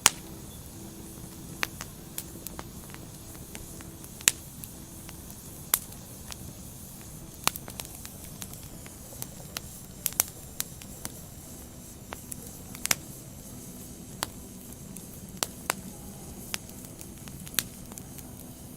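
Wood fire burning: logs crackling over a steady low hiss, with sharp pops at irregular intervals, a couple of seconds apart or closer.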